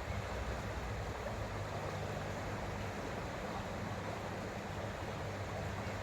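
Creek water running steadily, an even rushing sound with a low rumble underneath.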